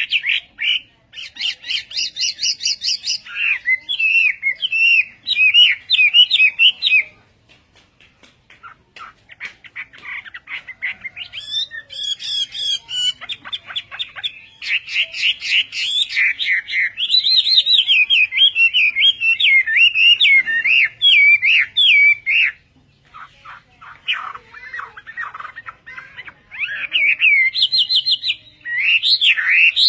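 Hwamei singing: long, loud runs of fast, varied whistled notes, broken by short pauses about seven and twenty-two seconds in.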